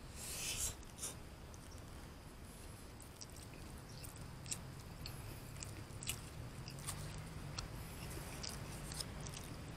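A person chewing a mouthful of rice and pork close to the microphone, with a short breathy hiss at the start and scattered small wet smacks and clicks throughout.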